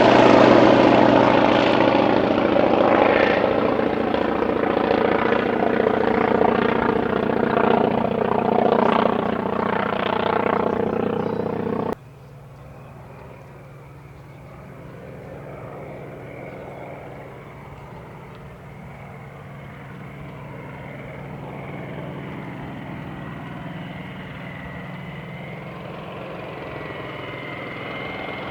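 Wright R-1820 nine-cylinder radial engine and propeller of a North American T-28 Trojan passing low, loud at first and easing off. About twelve seconds in, the sound cuts off abruptly to the aircraft far off and much quieter, slowly growing louder again.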